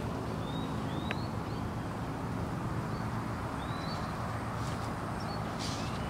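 Birds giving short rising chirps, several times, over a steady low rumble.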